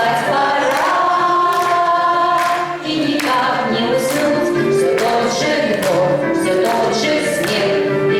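A women's choir singing a song from a medley of popular songs, sung together in chorus with musical accompaniment and a steady beat.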